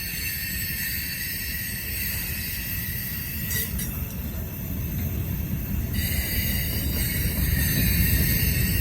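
Freight train's manifest cars rolling past, the wheels rumbling low on the rails under steady high-pitched wheel squeal. It grows louder toward the end.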